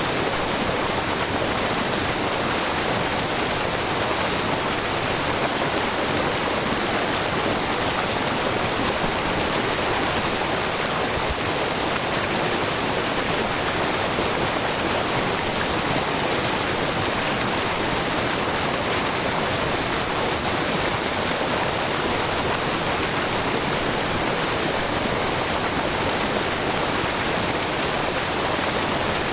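Waterfall: many thin streams of spring water falling a few metres onto rocks and pools, a steady, even rush with a brook babbling.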